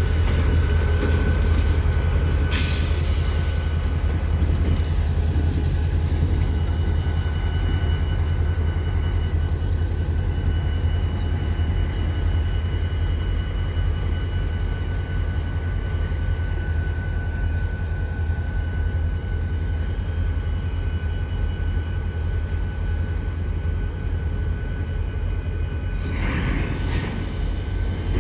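Train in a railyard running steadily, with a heavy low rumble and a steady high-pitched whine. A brief hiss comes about two and a half seconds in, and another near the end.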